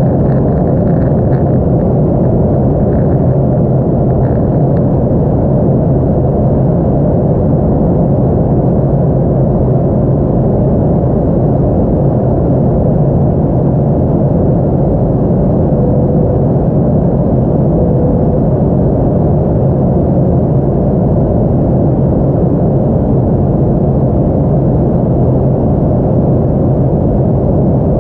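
Airliner cabin noise: a steady, loud rumble of the engines and rushing air, heard from inside the passenger cabin as the plane comes in to land.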